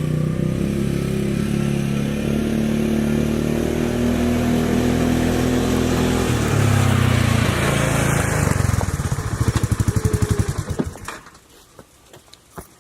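A small vehicle engine running steadily, then switched off: its firing breaks into separate beats that slow and stop about eleven seconds in. Faint clicks follow.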